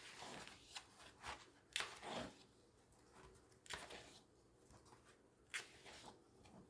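Magazine pages being handled and turned: several soft, separate paper rustles and flicks.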